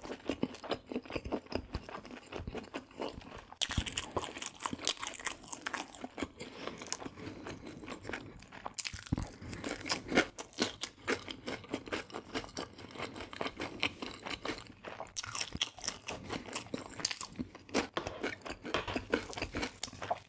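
Close-miked crunching and chewing of crispy deep-fried food: dense, irregular crackles of the crust breaking between the teeth. There are louder bouts of crunching about 4 seconds in, about 9 seconds in and again around 15 to 17 seconds.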